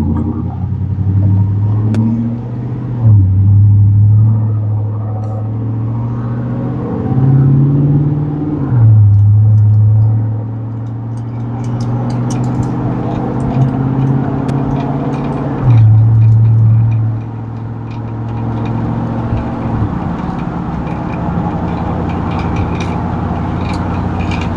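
V8 truck engine with a Brian Tooley Racing stage 1 truck cam, DOD and VVT deleted, driving on the road: it pulls hard several times, rising in pitch and then dropping back, and settles to a steadier run in the last few seconds.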